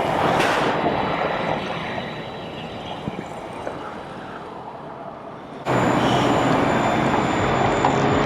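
Vehicle noise: a rushing sound that swells and fades, then, after an abrupt cut about five and a half seconds in, a steady engine hum under wind noise.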